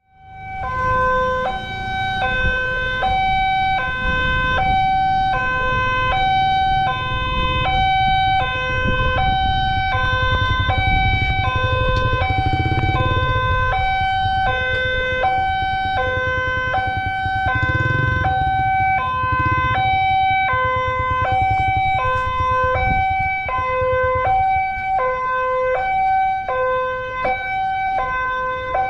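Electronic two-tone alarm switching evenly between a low and a high tone, each held about half a second, over a low background rumble.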